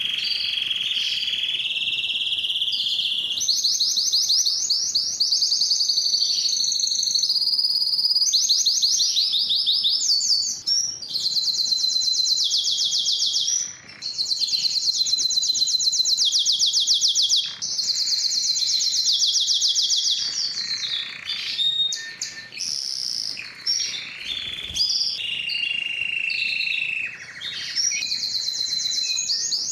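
Domestic canary singing continuously: a long song of rapid repeated notes and trills, changing phrase every second or few.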